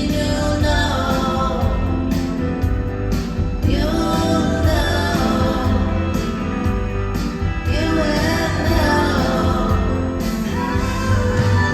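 Live rock band playing with a woman singing lead over it.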